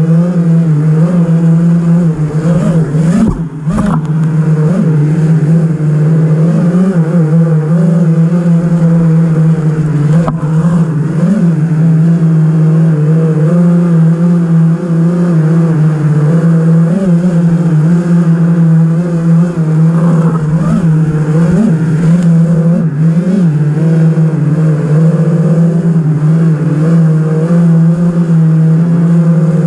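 A 5-inch 6S FPV racing quadcopter's brushless motors and propellers whine and buzz loudly and continuously, the pitch wavering up and down with constant throttle changes. The sound drops briefly about three and a half seconds in, as if the throttle is cut for a moment.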